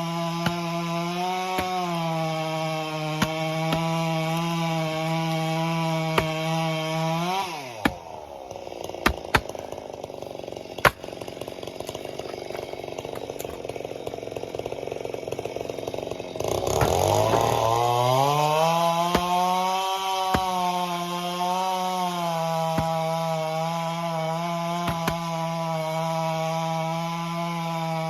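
Two-stroke chainsaw running at full throttle, cutting firewood. About seven seconds in the throttle is let off and the pitch falls away to a low idle, with a few sharp knocks. About sixteen seconds in it revs back up with a rising pitch and holds full throttle again.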